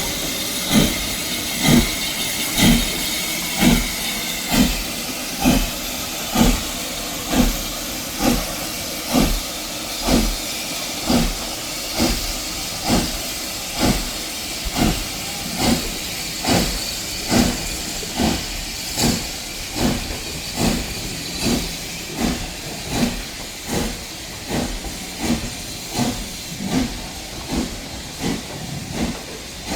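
Steam train running at a steady, slow pace: hissing, with a regular beat of about one pulse a second.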